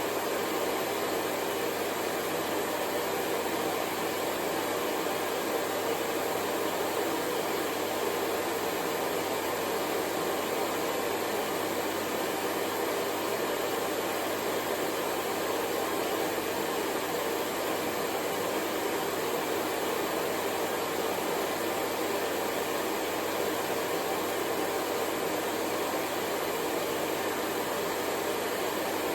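Hair dryer running steadily, a continuous even whoosh of blown air and motor with no change in speed.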